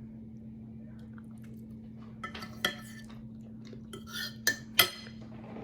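A fork clinking and scraping against a plate several times, starting about two seconds in and loudest near the end, over a steady low hum.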